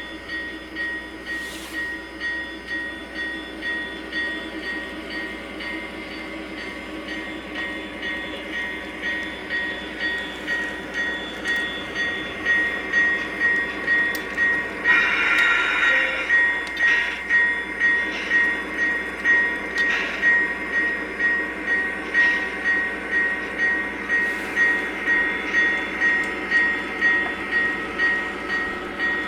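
Model Norfolk Southern Dash-9 diesel locomotive running, its onboard sound system playing a steady diesel engine drone over a regular rhythmic beat from the rolling train that grows louder partway through. A short horn blast sounds about halfway.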